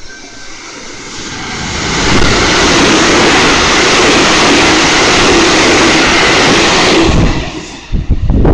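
Electric commuter train passing through the station at speed without stopping: its rush of wheels and air builds over about two seconds, stays loud for about five seconds, then drops away abruptly as the last car goes by. Gusts of wind hit the microphone in its wake near the end.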